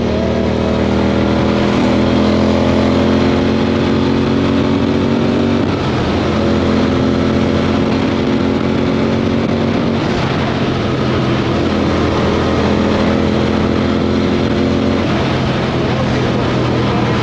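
Triumph Speed 400's single-cylinder engine with an Atom exhaust, running at steady revs while riding, with a brief dip in the engine note about six seconds in. Wind noise rushes over the microphone.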